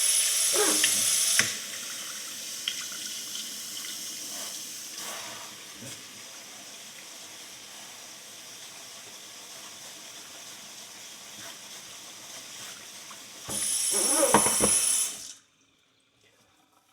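Sink tap running, water rinsing a steel horseshoe: loud at first, then a quieter steady flow for most of the time with a few faint knocks, loud again briefly, then shut off suddenly near the end.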